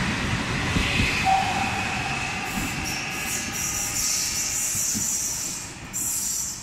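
Trenord ETR421 double-deck electric train rolling away from the platform, its wheels rumbling on the rails and fading as it draws off. A brief wheel squeal comes about a second in, and a high hiss joins from about two and a half seconds in.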